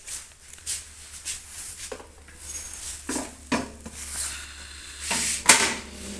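A dish or cup of water being handled and set inside a microwave oven: a string of clinks and knocks, the loudest about five seconds in, over a faint steady low hum.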